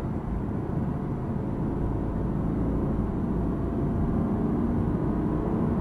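Sports car's engine and tyre/road noise heard from inside the cabin while the car is driven through a corner at track speed. The engine note climbs a little in the second half as the car picks up speed.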